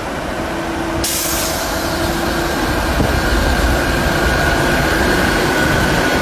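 Steady vehicle running noise with a rumble and a constant high whine. The sound turns abruptly hissier and brighter about a second in.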